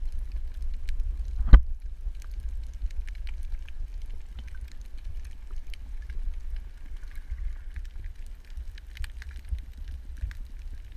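Underwater ambience picked up by a camera in its housing: a steady low rumble with scattered faint crackling clicks, and one sharp knock about one and a half seconds in.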